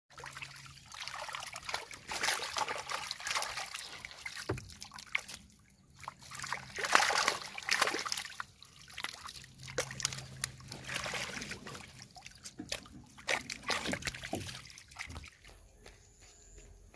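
Water splashing and trickling in irregular surges, the loudest about two and seven seconds in, dying down near the end.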